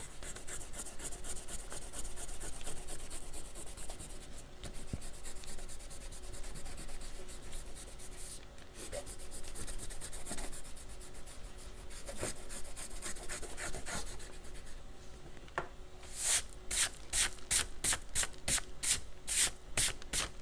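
Rubber eraser scrubbing back and forth across watercolor paper, erasing pencil lines: a continuous fine scratchy rubbing that turns into louder, evenly spaced strokes, about two or three a second, near the end.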